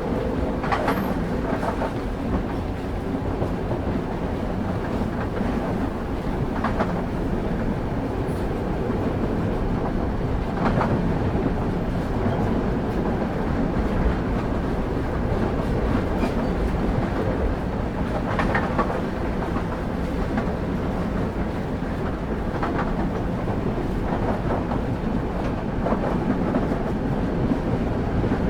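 Railway carriage wheels running on the rails, heard from on board the train: a steady low rumble with a sharp clack of wheels over a rail joint every few seconds.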